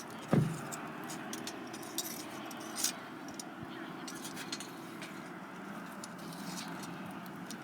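Firewood burning with scattered crackles and clicks, with one sharp knock about a third of a second in that rings briefly.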